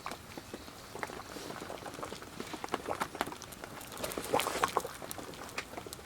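Thin, runny Thai curry bubbling, with small irregular pops and splutters that come thickest about four seconds in.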